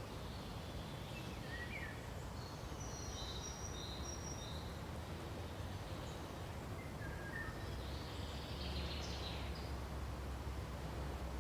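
Faint birdsong: short high chirps and whistles from small birds, one group in the first half and another near the end, over a steady low background rumble.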